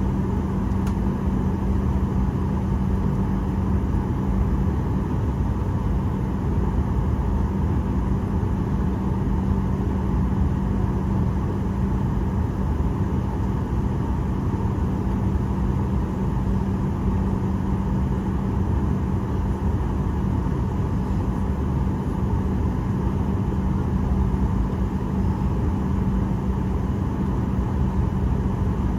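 Steady cabin noise inside a Boeing 737-800 jet airliner: a low rumble of the engines and airflow with a constant low hum running over it, unchanging in level.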